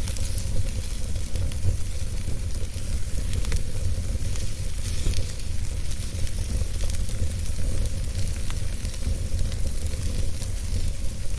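Wood fire burning in a fireplace: a steady low rumble and hiss with many small crackles and pops scattered irregularly throughout.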